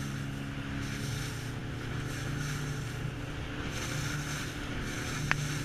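Small boat's motor running steadily under way, with water rushing past the hull and wind buffeting the microphone. A single sharp click about five seconds in.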